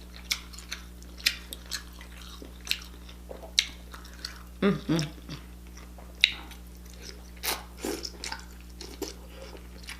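Close-miked eating sounds: wet chewing, smacks and clicks of the mouth at an uneven pace, with a short hum of the voice about five seconds in.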